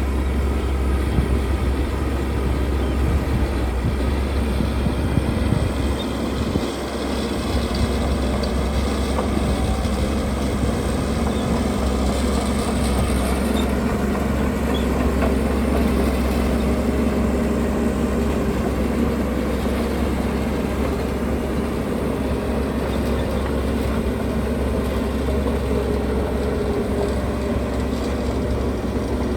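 Heavy diesel earthmoving machinery running steadily under load, a constant low rumble with no break.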